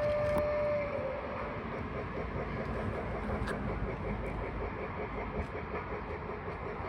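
Model train running on its track: a held whistle-like tone stops about a second in, followed by a steady rumble with an even rhythm of about four beats a second.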